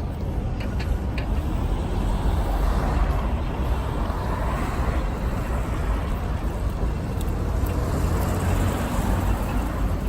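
City street traffic noise: motor vehicles running past with a steady low rumble, one swelling louder about two to five seconds in as it passes.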